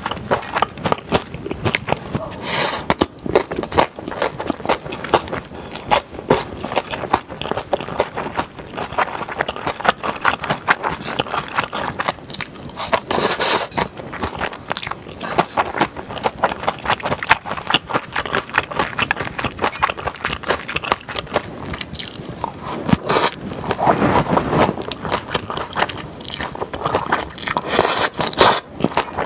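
Close-miked chewing and wet mouth sounds of a person eating stir-fried yakisoba noodles, a steady run of small clicks with a few louder bites.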